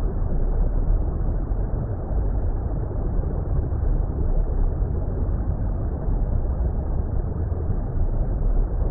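Steady, muffled underwater-style water rumble: an even noise heaviest in the deep bass, with nothing in the highs and no individual splashes or events.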